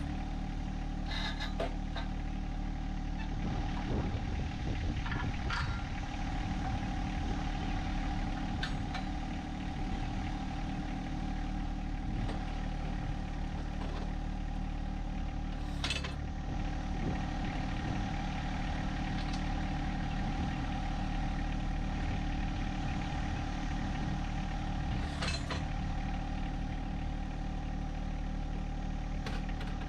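John Deere 1025R compact tractor's three-cylinder diesel engine running steadily at a constant speed, with a few short knocks over it.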